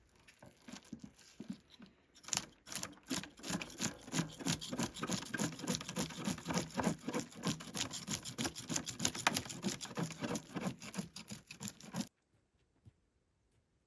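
Fish being cleaned: a knife scrapes along the fish in quick, repeated strokes, several a second, and stops abruptly near the end.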